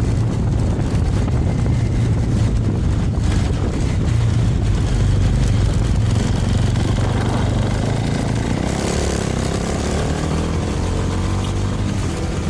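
Small Suzuki Thunder 250 motorcycle's engine running steadily at riding speed.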